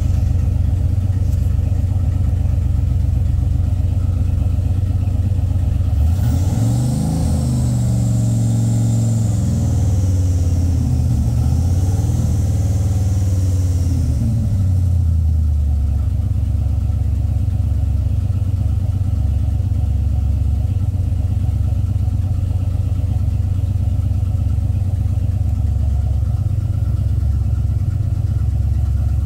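A warm Chrysler fuel-injected engine, heard from inside the cabin, idling at about 1,000 rpm. From about six seconds in it is revved to about 2,000 rpm and held there, rising and falling with a faint high whine that follows the revs. About fifteen seconds in it drops back to a steady idle.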